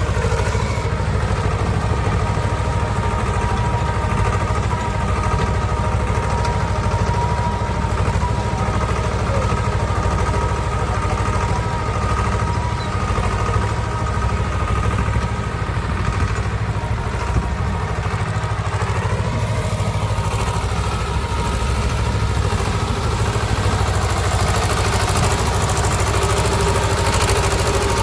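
Swaraj tractor's diesel engine running steadily.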